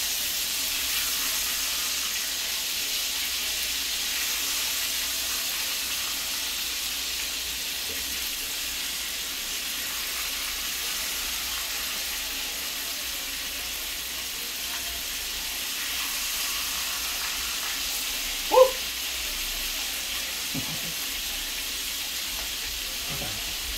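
Chicken frying in hot grease in a pan: a steady sizzle, with one brief louder sound late on.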